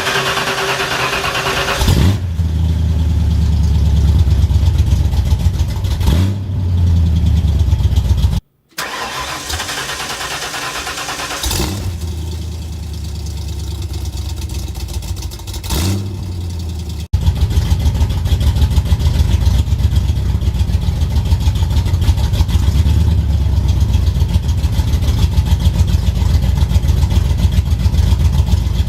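Ford 302 V8 with headers and a cut exhaust being cranked and started cold: it catches about two seconds in and runs loud, then settles into a steady idle with a choppy, rhythmic exhaust pulse. The sound breaks off briefly about eight seconds in.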